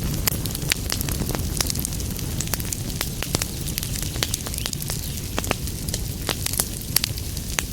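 Wood fire in a fireplace crackling, with many sharp, irregular pops and snaps over a steady low rumble of flame.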